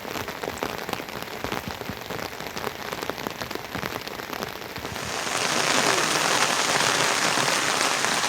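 Rain falling: separate drops pattering over a light hiss, then about five seconds in a sudden change to a louder, dense, steady downpour hiss.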